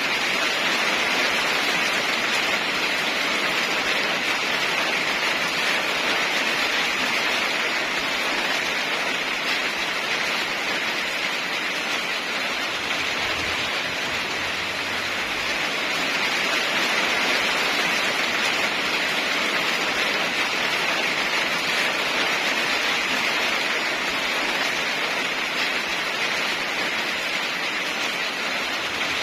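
Steady rain falling, an even hiss that swells and eases slightly without any break.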